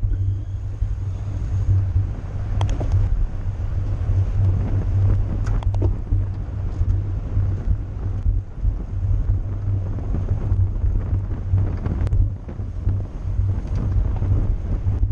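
Wind rumbling steadily on a camera microphone moving at cycling race speed, with a few brief sharp clicks about 3, 6 and 12 seconds in.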